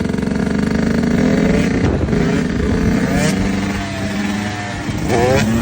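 Husqvarna TC 85 two-stroke dirt bike engine running hard, its pitch climbing in short sweeps as it revs, with a quick series of sharp rising revs near the end.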